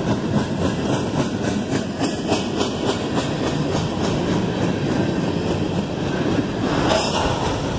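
Coal hopper cars of a freight train rolling past: a steady rumble of wheels on rail with a run of clicks as the wheels cross the rail joints.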